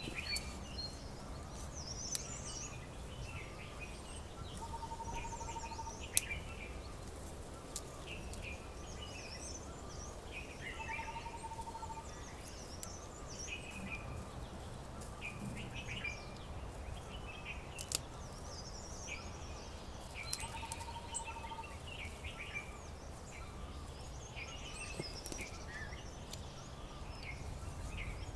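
Several wild birds chirping and calling, with a short, even trill about a second long repeated every six to nine seconds. A few sharp clicks stand out over a steady low background rumble.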